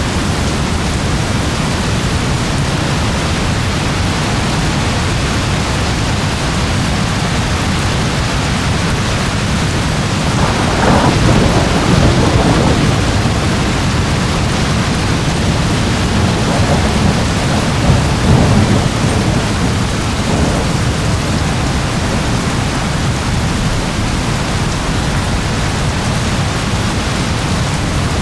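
Steady heavy rain, with thunder rumbling through the middle, loudest about a third of the way in and again past halfway.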